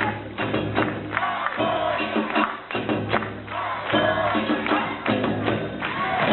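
Japanese festival music with drums and sharp metallic percussion strikes, and voices calling out over it, typical of the shagiri ensemble that accompanies a Nagasaki Kunchi float.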